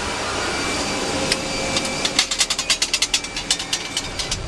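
Steady rushing background, then from about two seconds in a run of rapid, irregular metallic clicks from the Boeing 737-400's CFM56 engine fan blades clanking in their root slots as the fan turns slowly.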